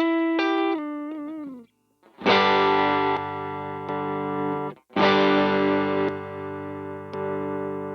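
Electric guitar played through a Demonfx King Spark drive pedal with an overdriven tone: a held note bent up and down that dies away, then two strummed chords, each left to ring for a few seconds.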